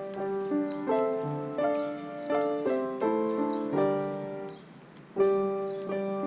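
Background music: a piano playing a slow melody of separate notes.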